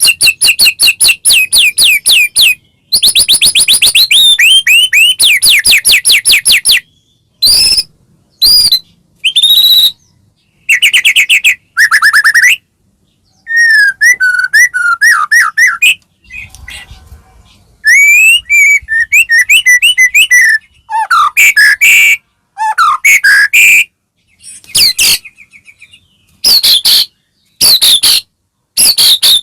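White-rumped shama (murai batu) singing loudly in bursts. Long runs of rapid repeated notes alternate with clear whistled phrases that glide up and down, broken by short pauses.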